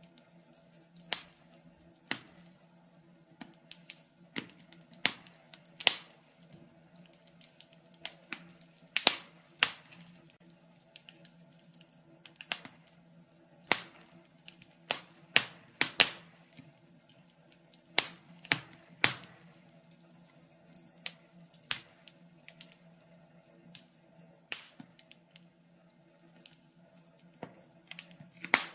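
Wood fire in a fireplace crackling, with irregular sharp pops and snaps, several a second at times and then sparse, over a faint steady hum.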